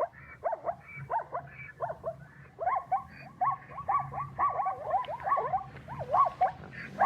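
An animal calling in a rapid series of short, high yelps, each sweeping up and down in pitch, several a second.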